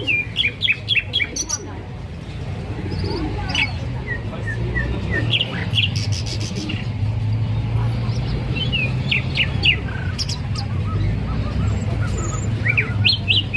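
Songbird sold as a 'hazar dastaan' singing in bursts of quick, sharp chirps and short whistled notes, with pauses between phrases. A steady low hum runs underneath.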